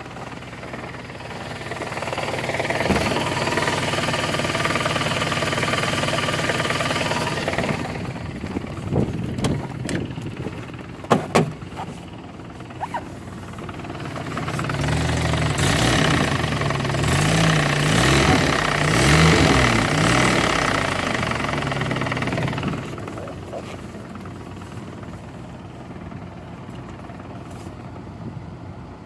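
Chevrolet Niva running, its sound swelling louder twice, with a few sharp knocks near the middle. The knocking comes from the gearbox, and its cause is not yet known.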